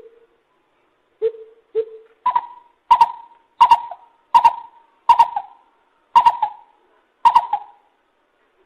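Lesser coucal calling: a run of short, hollow, owl-like notes, three low ones that then step up to a higher pitch for about seven more, spaced a little under a second apart.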